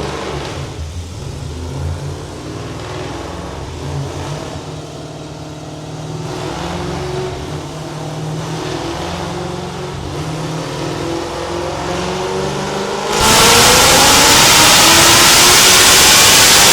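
S65 V8 engine of a BMW 1M rally car running on a dyno, burbling unevenly at low revs, then about thirteen seconds in going to full throttle for a pull. It turns suddenly much louder, with the revs climbing steadily.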